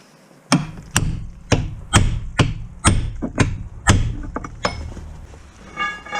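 A hammer striking repeatedly, about two blows a second, some nine strikes in all, then stopping.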